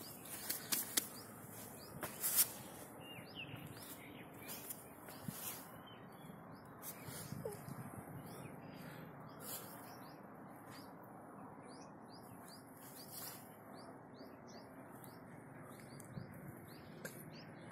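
Small birds giving short, high chirps over and over in the background. A few sharp knocks sound in the first couple of seconds.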